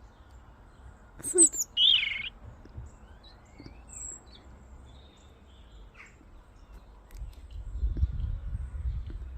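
A robin calling: a sharp tick with high thin notes about a second in, then a louder wavering note, followed by a few faint scattered chirps. A low rumble comes in near the end.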